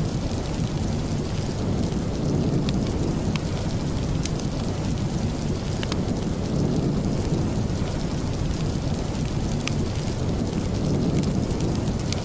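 Steady rain, a dense wash heaviest in the low end, with scattered sharp ticks.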